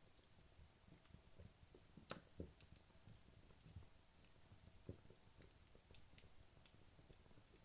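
Wood logs burning in a fireplace, crackling faintly with scattered small pops and ticks. The sharpest pops come about two seconds in and again near five seconds.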